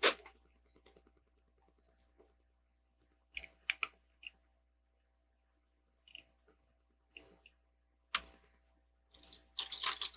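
Plastic Lego bricks clicking and clattering as pieces are handled and pressed together: scattered short clicks, with a sharp one about eight seconds in and a busier run of clicks near the end.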